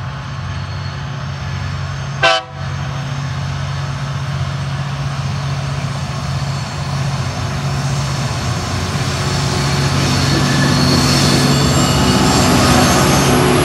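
TasRail TR class diesel-electric locomotives hauling a container freight train, their engines running with a steady low drone that grows louder as the train draws near. About two seconds in comes one short, loud toot.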